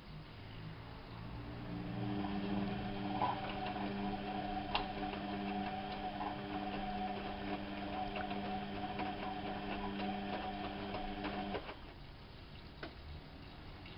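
Bauknecht WAP 6460 washing machine running: a steady motor hum with a few light clicks, starting a second or so in and cutting off suddenly near the end.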